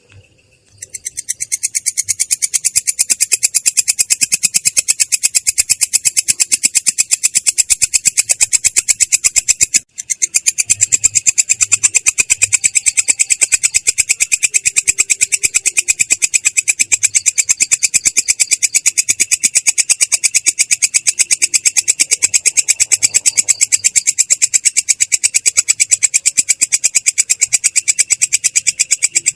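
Belalang kecek katydid calling in a continuous rolling trill of rapid, clear but rasping pulses. It starts about a second in and breaks off for a moment about ten seconds in before rolling on.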